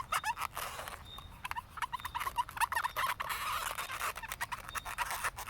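Black Sharpie marker rubbing over an inflated latex balloon as it colours in, a fast run of short squeaks and scratches.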